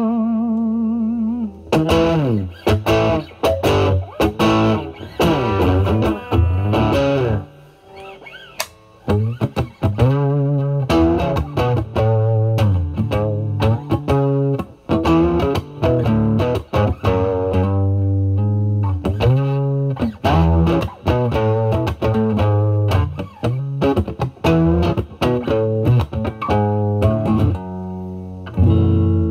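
Fender Stratocaster electric guitar played through a Vertex Steel String Clean Drive overdrive pedal at full gain into a Marshall Valvestate amp's drive channel. It plays bluesy lead lines with string bends and vibrato. The playing thins out briefly at about eight seconds.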